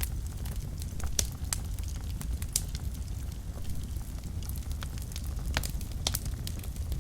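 Wood fire burning in a fireplace: a steady low rumble of the flames with irregular sharp crackles and pops, a few louder ones scattered through.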